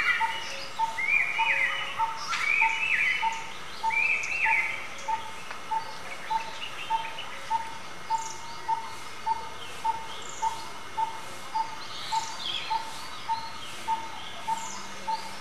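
Birds calling: one repeats a short, even note about three times a second throughout, while others chirp over it, with quick rising-and-falling phrases in the first few seconds and thin falling whistles later on.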